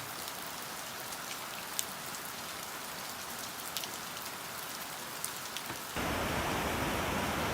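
Rain falling steadily, with scattered drops ticking sharply; about six seconds in it turns suddenly louder and fuller.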